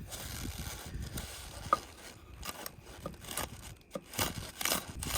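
Knife chopping green onions on a cutting board: a run of irregular, sharp taps.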